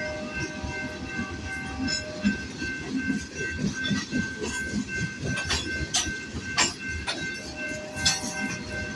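CPKC freight train rolling past, its wheels clicking sharply over rail joints above a steady rumble. A few steady high-pitched ringing tones run through it.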